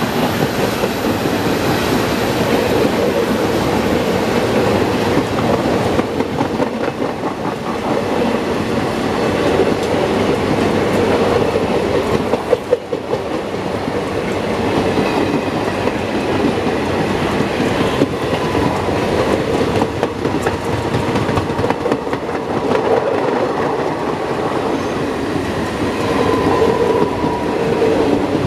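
Indian Railways train of blue passenger coaches passing close by, with the steady noise of its wheels running on the rails throughout.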